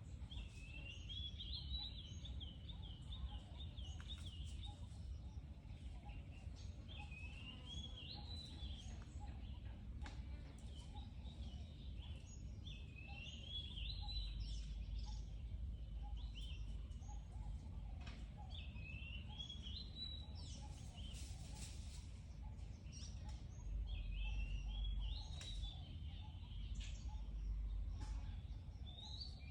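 A songbird repeating a short phrase of quick notes that rise in pitch, about once every six seconds, over a steady low rumble of background noise.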